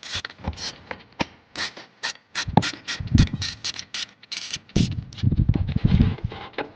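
Hand work on metal engine and clutch parts: a run of irregular clicks, scrapes and knocks, heavier around the middle and near the end.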